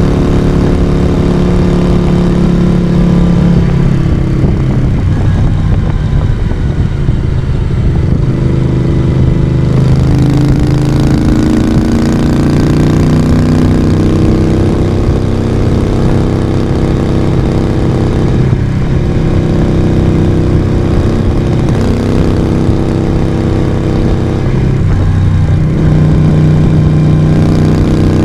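Moto Guzzi V35's air-cooled transverse V-twin engine and exhaust running under way. Its note falls and rises with the throttle and dips briefly a few times.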